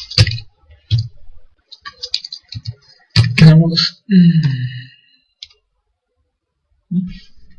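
Scattered computer mouse clicks and a few key taps, with two short spoken sounds from the presenter about halfway through.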